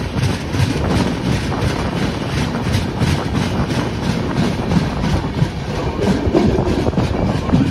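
Passenger express train under way, heard from on board: a steady rumble with a continuous run of clicks and clatter from the coach wheels on the track.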